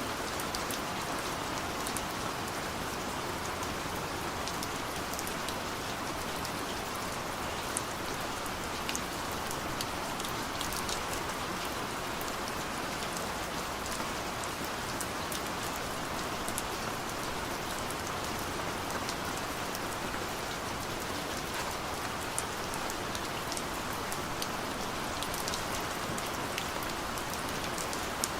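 Heavy rain pouring steadily, an even hiss with scattered sharp ticks of drops striking a surface.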